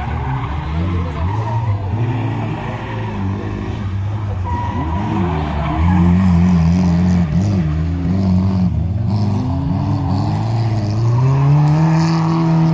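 Lada saloon's engine revving hard and dropping back again and again as it is driven through a slalom course, with tyres squealing through the turns. The revs climb and are held high twice, about halfway through and again near the end, then fall away.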